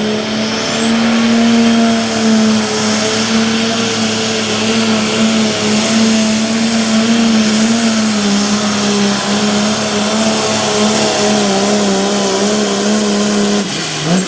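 International Harvester pulling tractor's diesel engine at full throttle through a pull, holding a steady, loud pitch with a high whine that climbs in the first second and holds. Near the end the throttle comes off and the engine drops suddenly toward idle.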